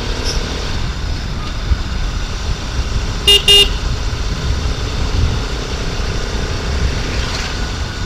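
Steady wind and road rumble of a moving motorcycle, with a vehicle horn giving two quick beeps about three seconds in.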